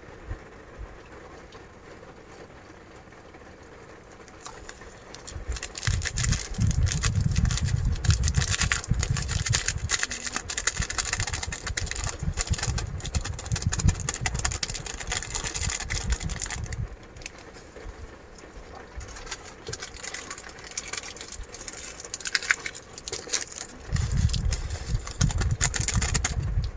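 Heavy rain with strong gusts of wind rumbling in two long spells, the first from about five seconds in to past the middle, the second near the end.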